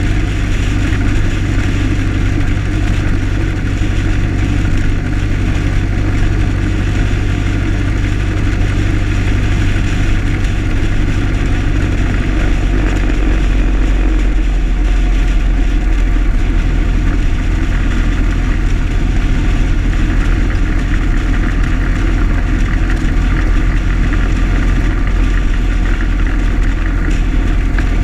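1925 Ford Model T's four-cylinder engine running steadily as the car drives along at road speed, with a loud low drone that shifts slightly about halfway through.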